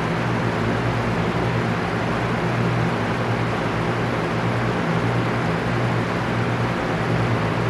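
Electric fan running steadily: an even rush of moving air with a low, steady motor hum beneath it.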